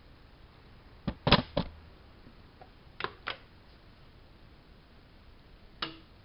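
Short sharp mechanical clicks from handling a Bauknecht WAP 6460 washing machine: three about a second in, the middle one loudest, two more about three seconds in, and a single one near the end.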